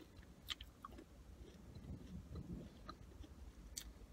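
Quiet chewing of McDonald's french fries, with a few short soft mouth clicks, one about half a second in and one near the end.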